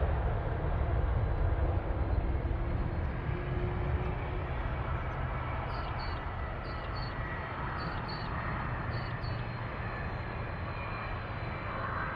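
Jet airliner's engines rumbling with a faint high whine, slowly fading.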